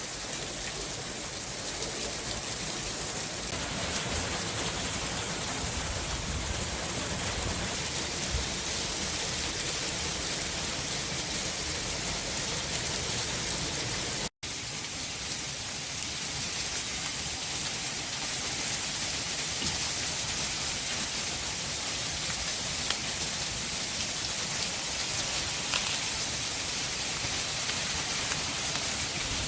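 Hailstorm: hail and rain pelting down in a dense, steady hiss, with a few sharper ticks of stones striking. The sound drops out for an instant about halfway through.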